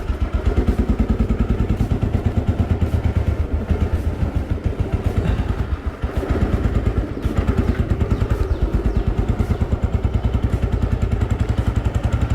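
Royal Enfield Thunderbird 350's single-cylinder engine running under way, with an even pulsing beat. The sound dips briefly about six seconds in, then picks up again.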